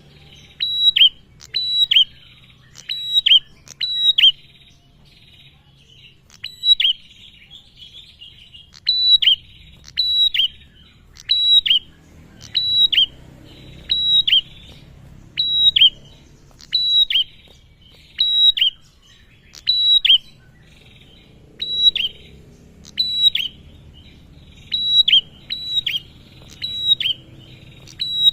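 Male prinia (prenjak) calling loudly, with clusters of two or three sharp, high notes that each drop in pitch, repeated about once a second with a few brief pauses.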